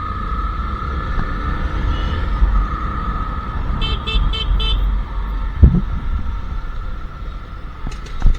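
Royal Enfield Classic 350's single-cylinder engine running at riding speed, with wind and road noise. About four seconds in, a vehicle horn gives four short beeps in quick succession, and a short loud thump follows a second or so later.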